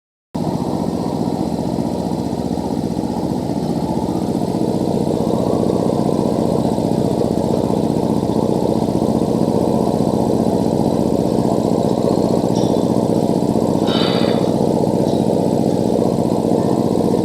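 Industrial rotary screw air compressor running steadily after repair, with an even mechanical hum. A brief higher sound cuts in near the end.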